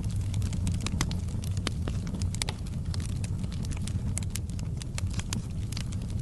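Wood fire burning in a fireplace: a steady low rumble of flame with many irregular crackles and pops from the burning logs.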